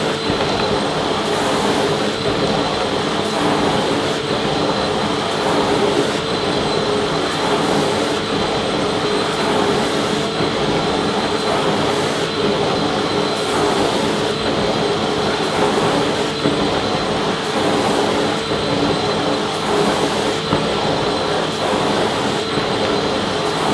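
Vacuum cleaner running steadily: a continuous rush of air with a steady motor whine.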